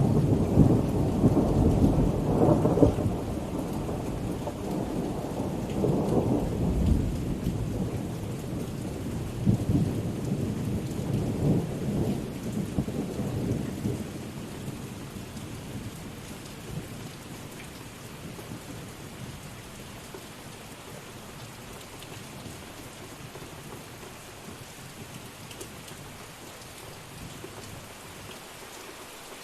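Thunder rolling over steady rain, in several low rumbling swells that fade out over the first half, leaving the even hiss of rain falling on surfaces.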